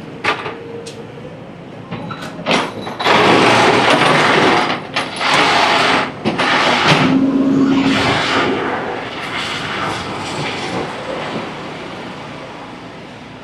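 Traffic and wind noise heard from a moving motorbike. A loud rushing stretch runs from about three to eight seconds in, with a short steady low tone near seven seconds, then it fades down.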